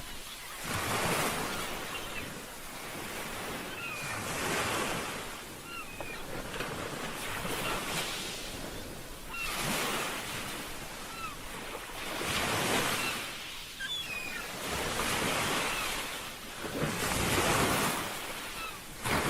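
Ocean waves washing in one after another, a swell of surf every two to three seconds, with wind. A few faint short chirping calls sound between the waves.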